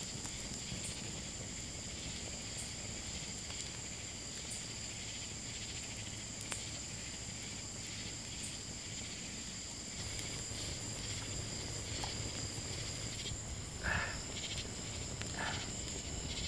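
Outdoor insect chorus, crickets trilling steadily at a high pitch, with two short, louder sounds near the end.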